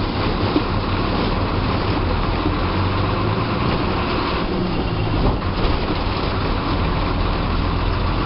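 A TSRTC bus's diesel engine running with steady road and body noise, heard from inside the driver's cabin, with a few small knocks.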